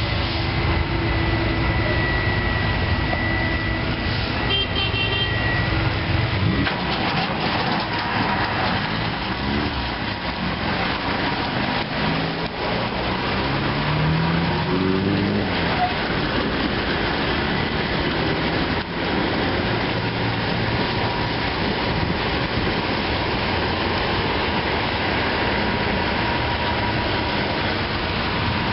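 Ceccato Ginga WD 240 rollover car wash running, a steady hiss of spray and brushes over motor hum. The deep rumble drops about six seconds in, and a short rising motor tone comes and goes partway through.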